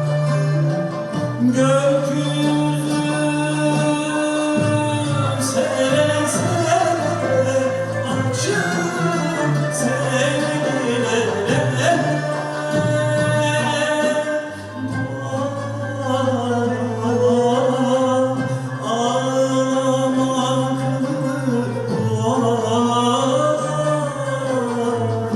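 Choir singing a Turkish art-music song in long, wavering held notes over instrumental accompaniment; the voices come in about a second and a half in.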